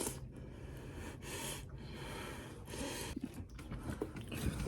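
Several audible breaths close to the microphone, each a short noisy swell of about half a second, a few seconds apart.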